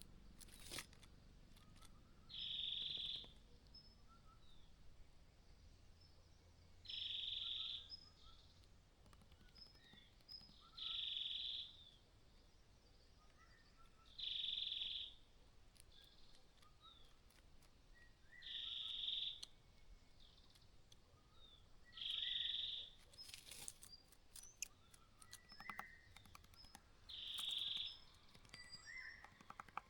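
Small birds chirping in short, scattered high notes, over a high buzzing sound about a second long that repeats every four seconds or so.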